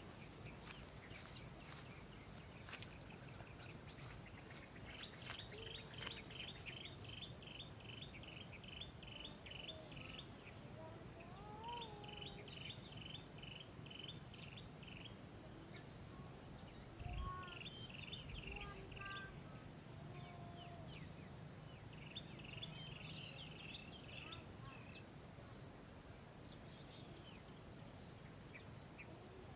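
A bird calling in rapid trains of repeated high chirps, about three notes a second, in four bursts of a few seconds each, over a steady low hum. A few sharp clicks sound in the first three seconds.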